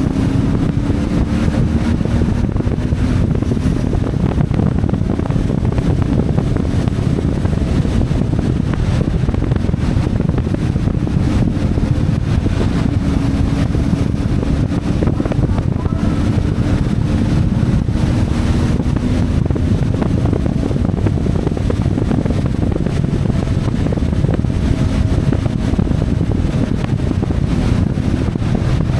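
CFMoto 450MT's parallel-twin engine running under way, its pitch drifting gently up and down with the throttle, with wind rushing over the microphone.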